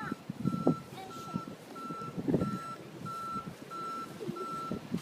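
Snow plow truck's backup alarm beeping steadily while it reverses: a single high tone repeating evenly, about one and a half beeps a second.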